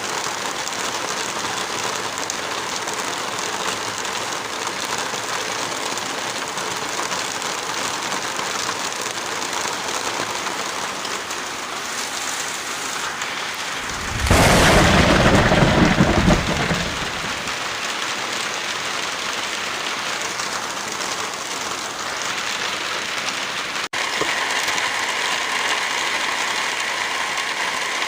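Steady heavy rain falling, with a loud clap of thunder that rumbles for about three seconds near the middle. About 24 s in the rain sound cuts abruptly and goes on with a faint steady tone in it.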